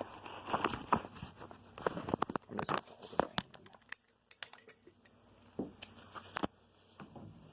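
Irregular light clicks, taps and knocks of handling, scattered unevenly, with no steady running sound.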